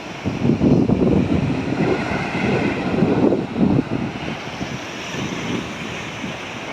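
Wind buffeting the microphone in uneven gusts over the hiss of ocean surf washing up the beach.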